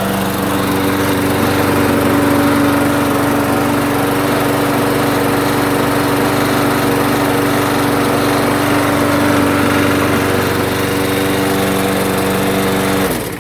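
Lawn mower engine running at a steady, even speed with a swapped-in carburetor, no longer surging or hunting. It shuts off near the end.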